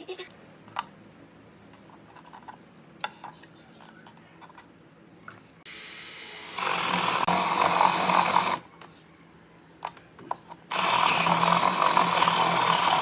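Power drill running in two bursts, the first about three seconds long and the second about two, after a few light knocks and clicks.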